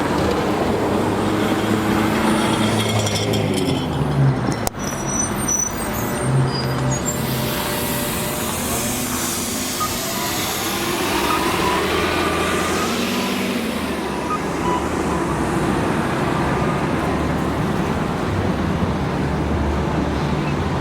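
Heavy vehicle engines running amid road traffic noise, with a sharp click about five seconds in.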